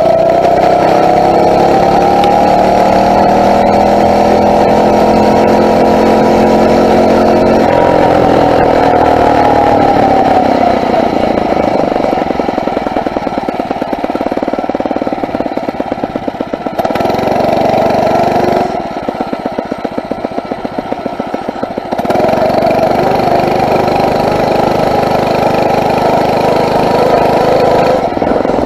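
Phatmoto four-stroke motorized-bicycle engine running under way: the pitch climbs through the first several seconds as it speeds up, then falls back. About 19 seconds in it drops to a lower, quieter note for a few seconds before pulling up to speed again.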